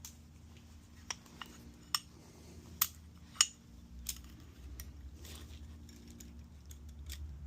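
Small metal engine parts clicking and clinking together, about five sharp clicks in the first four seconds, the loudest about three seconds in. This is hands-on handling while the last new pistons and rings are put together. After the clicks comes a quieter, steady rustle of handling.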